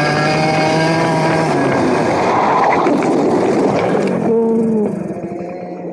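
TM 60cc two-stroke kart engine running, its note falling about a second and a half in, with a rush of noise through the middle; near the end the engine drops to a lower, quieter note.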